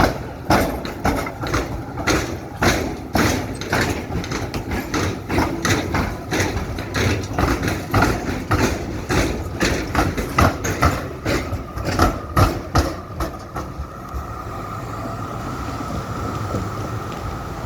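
Electric train wheels clattering over the tram-square crossing, a fast irregular run of sharp clacks over a steady rumble, about two to three a second. The clacks stop about two-thirds of the way in, leaving a steady hum.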